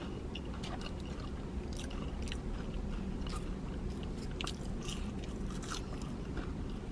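A person chewing and biting into fast food close to the microphone, with scattered wet clicks and crunches.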